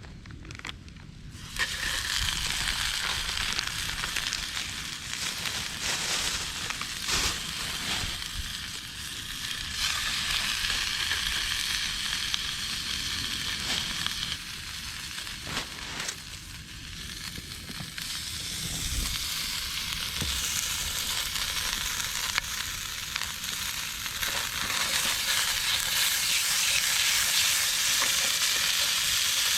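Food sizzling in a hot pan: a steady hiss that starts suddenly about a second and a half in, with a few scattered pops, and grows louder near the end.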